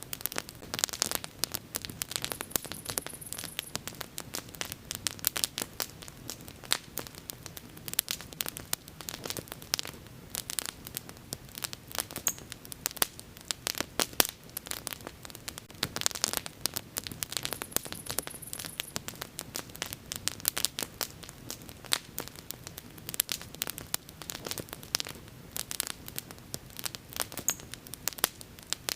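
Wood bonfire burning with dense, irregular crackling and sharp pops over a low steady rush of flame.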